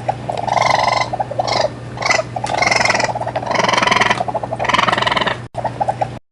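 An animal calling over and over, each call about half a second to a second long with a rapid pulsing texture, over a steady low hum.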